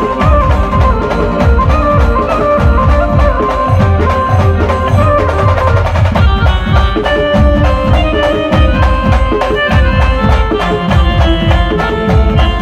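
Indian band music in an instrumental passage without singing: a continuous run of drum strokes under sustained melody notes.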